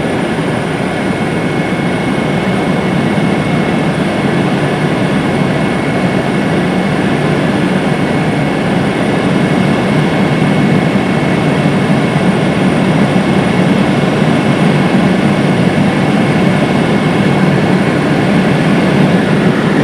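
Helicopter in flight heard from inside the cabin: a loud, steady drone of engine and rotor with a thin, steady whine above it.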